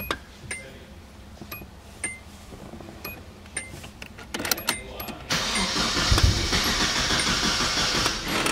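A few light clicks, then the freshly rebuilt KA24DE four-cylinder engine of a Nissan 240SX cranking over on the starter for about three seconds, with a heavy thump partway through, before the cranking cuts off suddenly.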